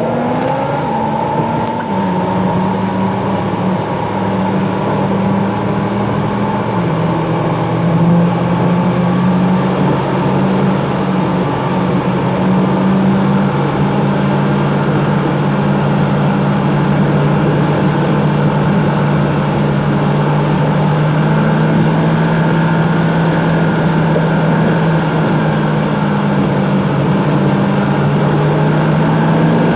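Car engine and road noise heard from inside a moving car, sped up fourfold, so the engine hum sits high and steady. Its pitch steps up or down a few times as the car's speed changes.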